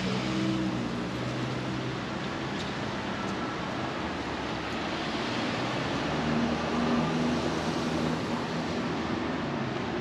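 Rain and city traffic: a steady hiss of rain with the low hum of passing vehicle engines, a little louder about six to eight seconds in.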